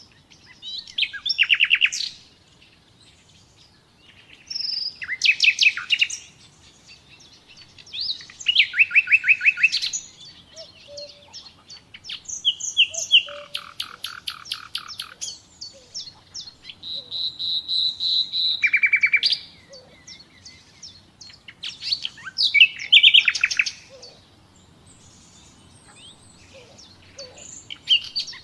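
Common nightingale singing: varied phrases of fast repeated notes, trills and whistles, each a couple of seconds long, separated by short pauses. About two-thirds of the way through comes a run of repeated whistles that grows louder.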